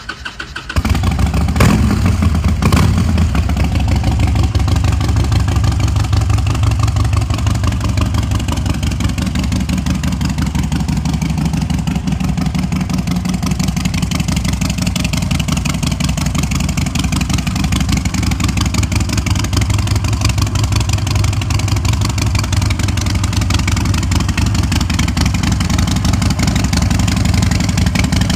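Harley-Davidson XL1200V Seventy-Two's stage 1 tuned air-cooled 1200 cc V-twin being started: the starter cranks briefly and the engine catches under a second in. It then settles into a loud, steady idle.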